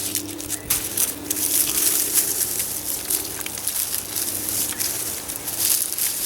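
Onions being pulled from a raised bed and handled: a busy run of small crackles and rustles from dry onion tops and loosened soil.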